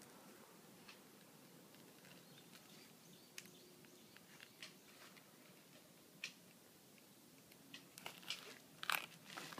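Near silence broken by faint, scattered clicks and crinkling, with a cluster of sharper clicks near the end.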